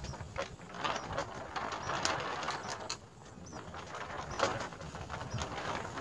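Short, scattered bird chirps mixed with quick clicking ticks.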